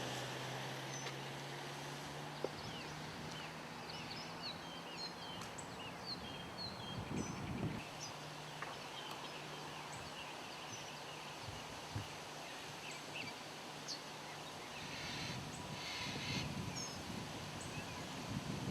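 Birds chirping and calling, many short chirps with a trill about two-thirds of the way in, over a faint steady low hum.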